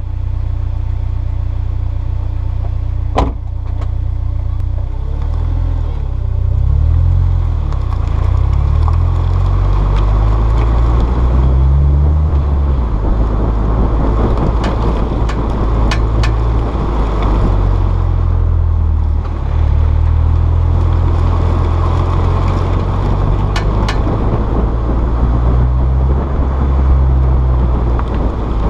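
Honda S2000's four-cylinder engine running as the car drives, its pitch rising and falling in the first half, over steady road noise. Several sharp clicks come about halfway through and again later. The owner says this clicking comes from a rear wheel when the car turns right, a fault whose cause he does not know.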